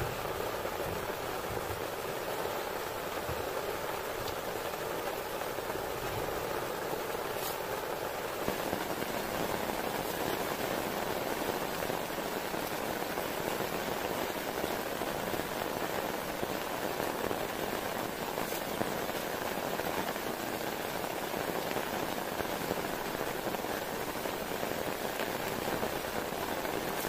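Steady heavy rain falling on a tent and its tarp, an even hiss with a few faint ticks of drops.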